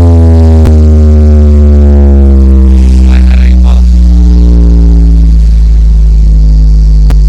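Huge horeg carnival sound system playing one long, very loud deep bass drone that slowly falls in pitch.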